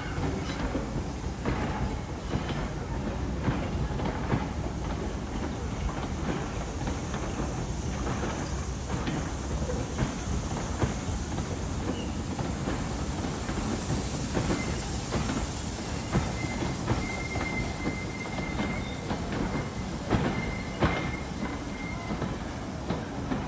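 A train rolling past on the rails, its wheels clicking irregularly over the rail joints. A thin, high wheel squeal comes and goes in the second half.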